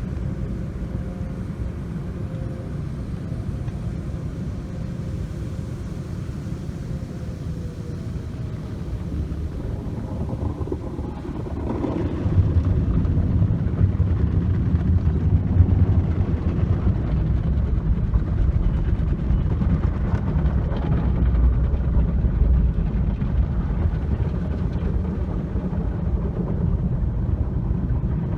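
Automatic tunnel car wash working over a car: a steady low rumble that grows louder about twelve seconds in.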